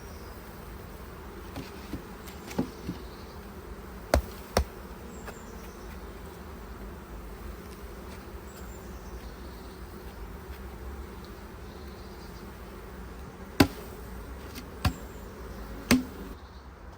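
Honeybees buzzing steadily from an open hive, with a few sharp knocks, the loudest about three-quarters of the way through.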